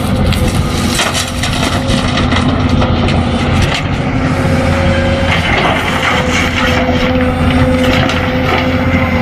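Remote-control toy excavator's motors running with a steady whine, while crackling and scraping clicks come from material being pushed and crushed.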